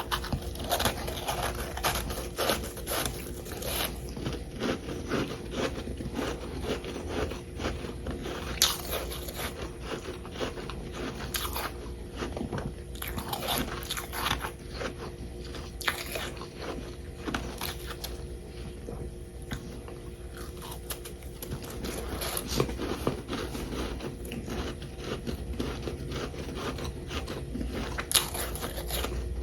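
Close-up biting and chewing of chunks of humidifier-made freezer frost: dense, irregular crisp crunches and crackles, one after another, with no pause of any length.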